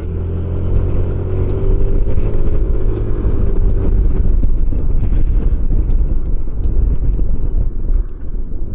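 Motorcycle engine running under way with a steady low rumble; its note rises slightly, then eases off about four seconds in.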